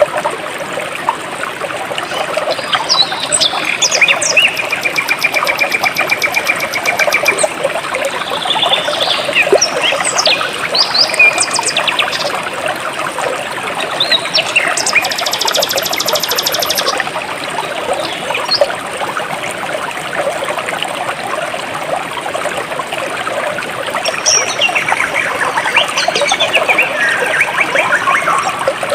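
Jungle stream flowing steadily, with birds calling over it: whistled notes and chirps, and rapid high trills a few seconds in and again around the middle.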